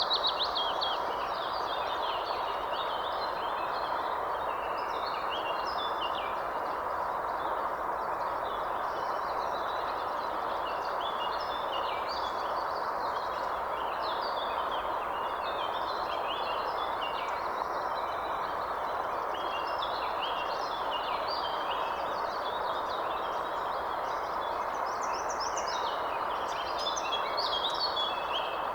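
Birds chirping and calling throughout, many short high notes overlapping one another, over a steady even rushing noise.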